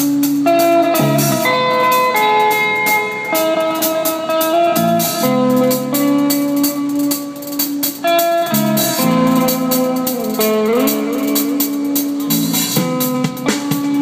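A live band playing: a guitar carries held, ringing notes with a few sliding bends, over a drum kit keeping a steady beat on the cymbals.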